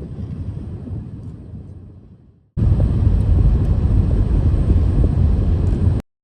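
Storm wind buffeting the microphone outdoors in a snowstorm, a loud low rumbling rush. It fades, then cuts to a louder stretch of the same rush about two and a half seconds in, which stops abruptly near the end.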